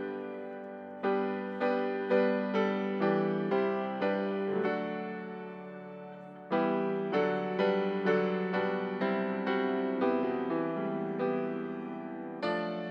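Solo piano playing a slow, gentle piece, notes struck about twice a second and left to ring. About halfway through, a held chord fades out before the playing picks up again.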